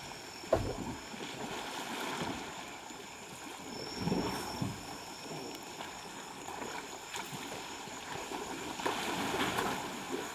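Water splashing and sloshing as elephants bathe in the river, in uneven swells, with a sharp low thump about half a second in.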